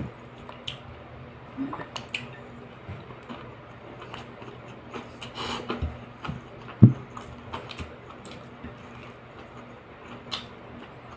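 Eating sounds close to the microphone: a man chewing fried fish and rice, with wet mouth smacks and small clicks scattered through and one sharper smack about seven seconds in. A faint steady hum runs underneath.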